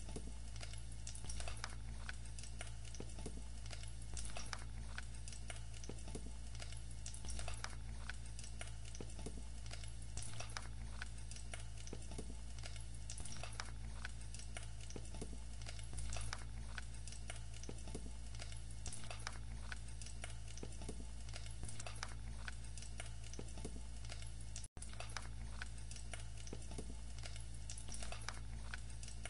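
Diced carrot and spring onion frying in oil in a nonstick pan: a faint, steady sizzle with many small crackles and pops scattered through it, over a steady low hum.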